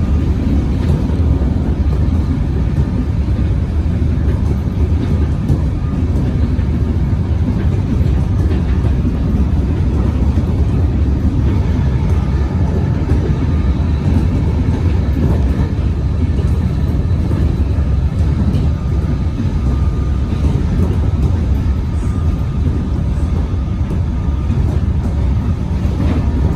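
Melbourne suburban electric train running steadily: a continuous heavy rumble with faint steady whining tones above it.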